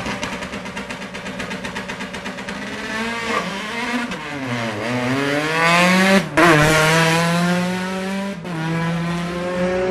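Rally car engine held at high revs with a rapid, even crackle on the start line. It then pulls away, accelerating hard with two quick upshifts.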